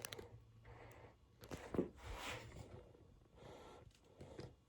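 Faint handling noises as something is moved, with one sharp knock a little under two seconds in, and a few soft breaths.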